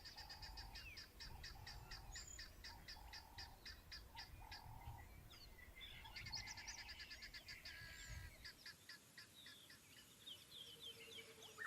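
Faint wild birdsong: quick runs of short, high chirps repeating many times a second, with a lower short note repeated at a steady pace through the first half.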